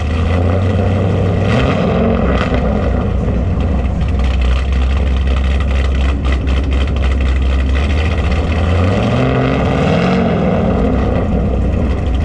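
V8 car engine running steadily at a low rumble, then climbing in pitch twice, once about a second and a half in and again about nine seconds in.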